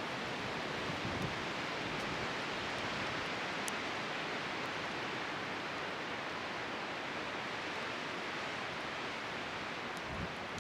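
Yard bonfire burning in a strong wind: a steady rushing noise with a few faint, sharp crackles.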